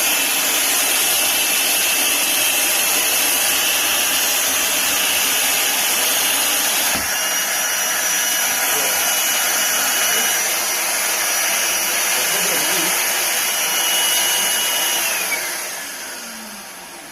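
Titan vacuum cleaner motor switched on and running with a steady high whine. About seven seconds in, the whine steps up in pitch. Near the end the pitch drops and the sound fades as the motor is switched off and spins down.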